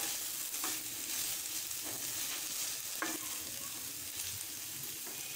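Potato filling frying in a non-stick pan: a steady sizzle, with a plastic spatula scraping and stirring through the diced potatoes, onion and coriander and giving a few soft knocks against the pan.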